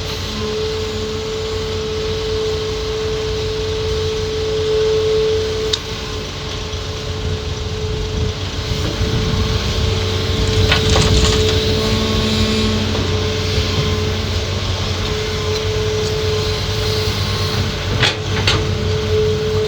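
Hitachi ZAXIS 200 hydraulic excavator working, its diesel engine and hydraulics running with a steady whine over a low rumble. A few sharp clanks of rock against the steel bucket, the loudest about 11 and 18 seconds in.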